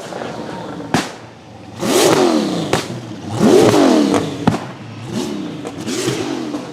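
A drift car's engine revved in about four sharp blips, the pitch rising and falling each time, the two biggest near the start and middle, with several sharp cracks between the revs.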